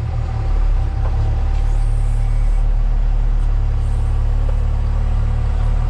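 Heavy vehicle engine running steadily with a deep, even drone.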